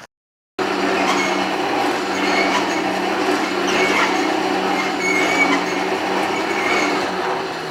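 Blacksmith's forge running: a steady rushing roar with a constant low hum, starting abruptly about half a second in.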